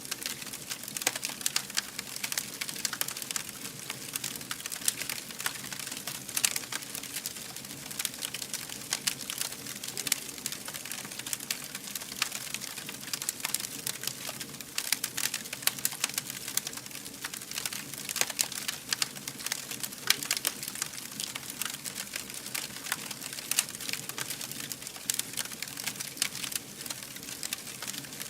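Campfire burning with dense, irregular crackling and popping, the louder snaps scattered unevenly over a soft hiss.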